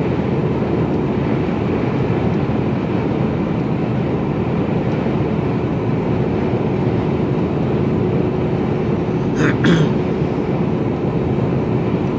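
Inside the cab of a Mercedes-Benz Actros lorry cruising at motorway speed: a steady drone of engine and road noise with a faint steady hum. About nine seconds in, a brief hissing rattle sounds for under half a second.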